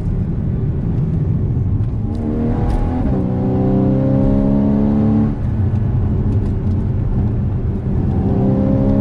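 Porsche Cayman GTS engine under hard acceleration, revs climbing through the gears with two brief dips about five seconds in and near the end.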